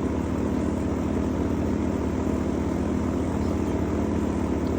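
A small engine running steadily at constant speed, with an even, unbroken hum.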